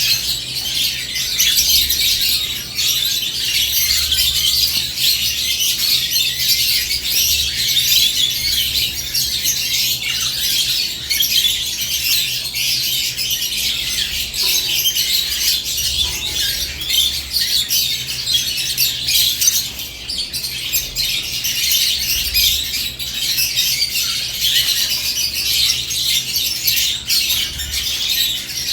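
A flock of caged lovebirds chattering and squawking: dense, continuous high-pitched calls overlapping one another without a break.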